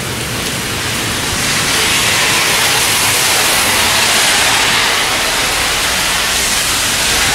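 Heavy rain pouring down in a dense, steady hiss that grows louder about two seconds in.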